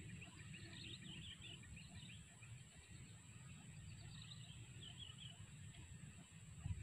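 Near silence: faint outdoor ambience with a low rumble and distant birds chirping now and then.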